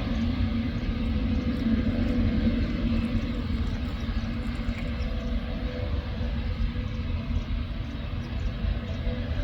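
Aircraft engines rumbling steadily, with a low hum held throughout.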